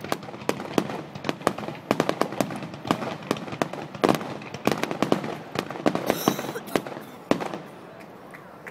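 Fireworks display going off: a rapid, irregular string of bangs and crackles that thins out near the end.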